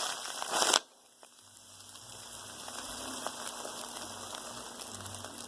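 Plastic trash-bag squishy stuffed with cotton being squeezed: loud crinkling of the plastic for almost a second, which stops suddenly, then faint crackling.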